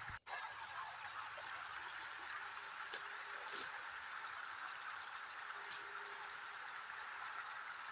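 Steady rain falling, an even rushing hiss, with a brief dropout just after the start and a few sharp taps about three and five and a half seconds in.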